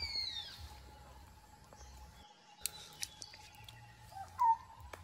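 Wild bird calls: a falling whistle at the start and a short chirp near the end, over a faint steady high drone, with a few sharp clicks about three seconds in.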